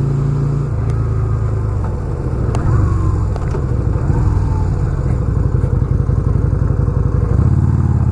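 Yamaha V-Star 250's V-twin engine running steadily, its pitch beginning to rise near the end as it revs up.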